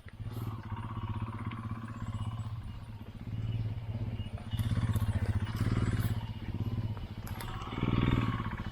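Motorcycle engine running at low revs, its throttle opened and eased several times so the sound swells and falls.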